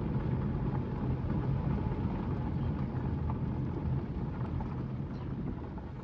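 Car running along a road, heard from inside the cabin: a steady low engine and road rumble that eases off over the last couple of seconds.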